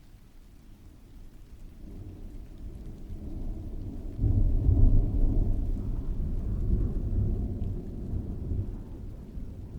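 A long roll of thunder over steady rain: a deep rumble that builds for a couple of seconds, swells sharply about four seconds in, then slowly dies away.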